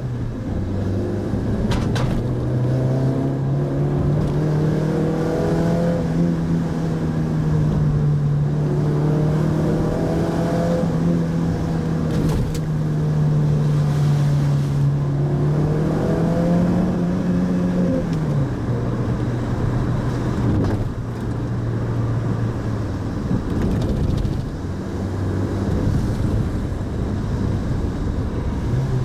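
Mitsubishi Pajero Mini's engine running while driving, its note rising and falling with the throttle and dropping to a lower pitch about 18 seconds in, with a couple of brief clicks along the way.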